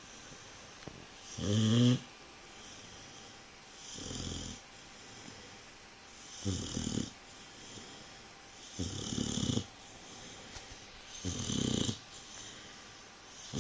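A 9-month-old Dogue de Bordeaux snoring: five loud snores, about one every two and a half seconds. The first and loudest has a pitched, buzzing tone.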